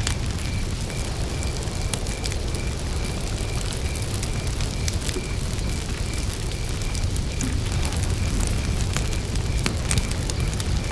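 Campfire burning, wood crackling with scattered sharp pops over a steady low rumble. Faintly behind it, a cricket chirps in a steady, even pulse of a high note, several times a second.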